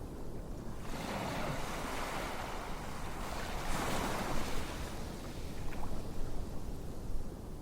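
Ocean waves washing in: a wash of surf that builds about a second in, peaks around four seconds and eases back down.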